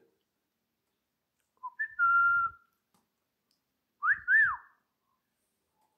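Two short bursts of whistling: a few brief notes leading into a steady held note about two seconds in, then two quick rising-and-falling notes about four seconds in.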